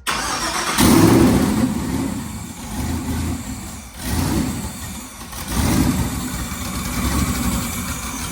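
The 1981 Chevrolet Malibu's twin-turbo engine running, revved up in about three surges between steadier stretches.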